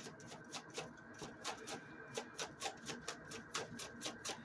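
Oracle cards being shuffled by hand: a quick, irregular run of light card clicks and rubs, about four or five a second.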